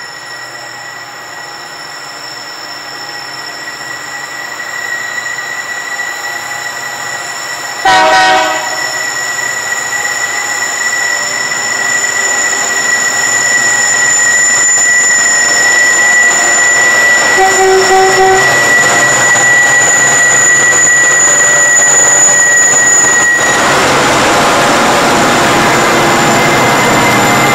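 Diesel locomotives hauling a loaded grain train approach and grow steadily louder, with a short horn blast about eight seconds in. Near the end the locomotives pass close by in a loud rush of engine and wheel noise.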